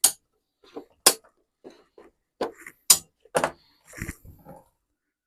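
Airgun shots with pellets striking a steel pellet catcher faced with a carpet tile: about five short, sharp cracks over three and a half seconds, then a weaker cluster of knocks. The hits are short, without the ringing of bare metal, since the carpet damps the plate.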